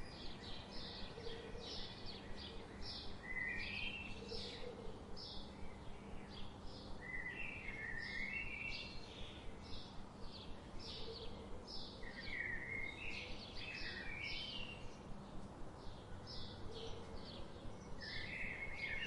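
Songbirds chirping: a dense run of short, high chirps, with a lower descending warbled phrase every few seconds, over a steady background hiss.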